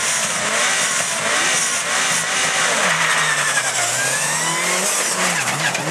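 Subaru Impreza rally car's flat-four engine running and pulling away from the start line, its revs rising and falling as it moves off.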